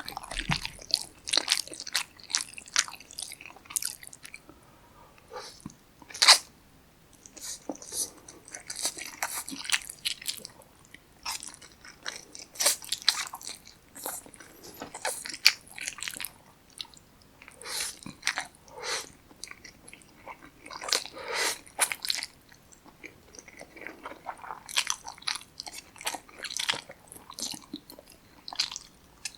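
Close-miked eating sounds of a person chewing Chapagetti black bean noodles and kimchi, with crisp crunches and clicks coming in irregular bursts and short pauses between mouthfuls.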